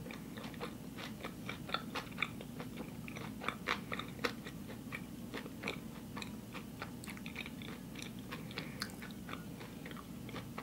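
A person chewing a mouthful of raw vegan lasagna with zucchini noodles and nut filling, close to the microphone: a steady run of small wet mouth clicks and soft crunches over a faint low hum.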